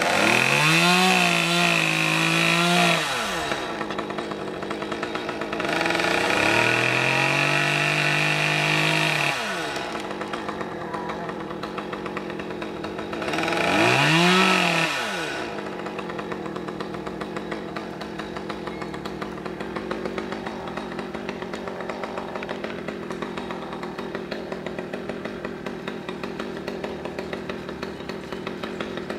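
Two-stroke chainsaw revved up to full speed three times, each burst lasting a few seconds with the pitch climbing and then dropping back. Between the bursts it idles with a fast, even patter.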